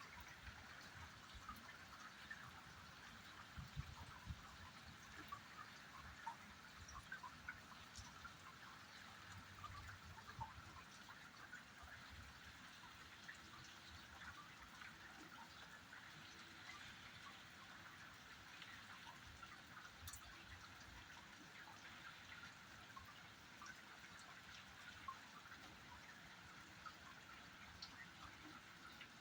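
Faint, steady rain, many small drops pattering and dripping without letup.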